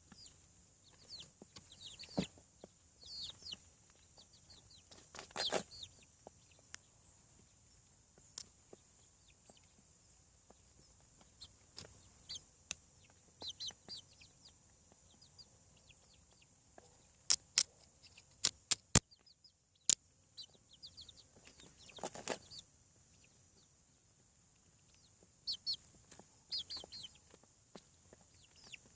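Chicks peeping in scattered short high-pitched clusters. A handful of sharp clicks or taps fall close together about two-thirds of the way through and are the loudest sounds. A faint steady high hiss runs underneath.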